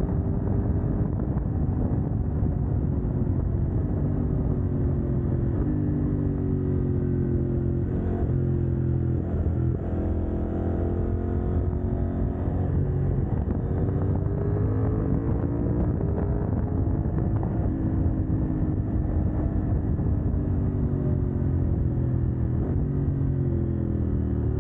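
CF Moto 800NK's parallel-twin engine, its catalytic converter removed, running under way. The pitch rises and falls several times as it accelerates and eases off.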